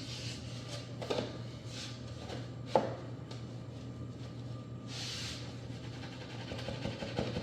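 Handling sounds during floor work: a few light knocks, the sharpest about three seconds in, and a short rubbing hiss about five seconds in, over a steady low hum.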